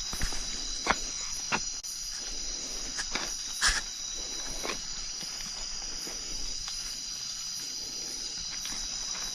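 Steady, high-pitched chorus of crickets and other insects, with a few irregular footstep crunches on the path in the first half, the loudest about four seconds in.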